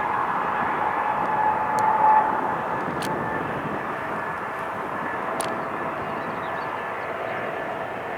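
Jet airliner engines running, a steady rushing noise with a faint whine held at a few steady pitches.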